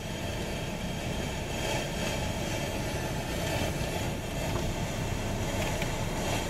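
Steady, even engine rumble with a broad hiss, holding level throughout.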